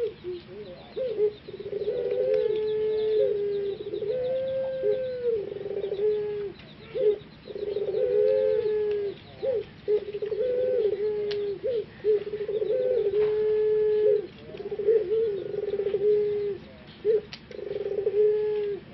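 Male puter pelung dove cooing over and over: a long run of low, drawn-out coos that step in pitch, one after another with short pauses.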